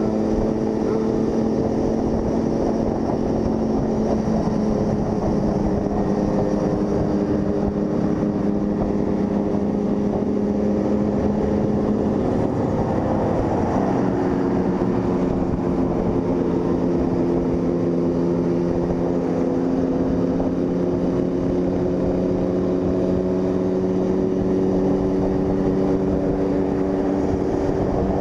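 Honda CG Fan 160's single-cylinder engine running steadily under way. Its pitch shifts around halfway through, then holds steady.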